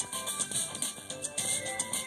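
Music with a regular beat and a melody playing through a Pioneer car stereo head unit and small coaxial car speakers.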